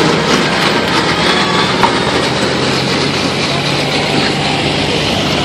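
A four-wheel-drive pickup truck's engine running hard under full load as it pulls a weight sled, with its tyres spinning on the track. The sound is loud and steady.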